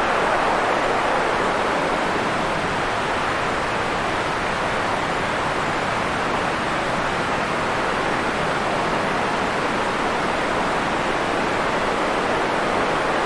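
Steady white-noise track: an even, unbroken hiss, strongest in the middle range, with little deep bass or high treble.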